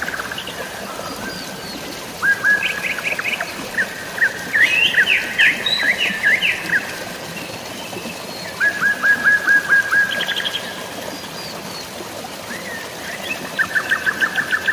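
Songbirds singing in short phrases of quick repeated notes, about four phrases a few seconds apart, over a steady hiss of falling or flowing water.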